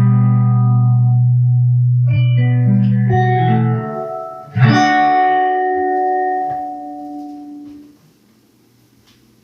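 Guitar playing the song's closing bars: a held chord, a few single notes, then a final chord struck about halfway through that rings out and fades away to near silence.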